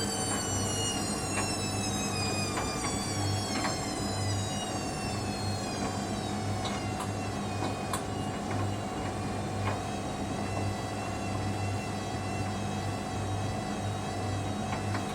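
Hoover Dynamic Next washing machine in a low-speed spin at about 300 rpm: a steady drum rumble with a pulsing low hum under the motor's whine, which falls in pitch over the first few seconds and then holds steady. Small clicks and ticks come here and there.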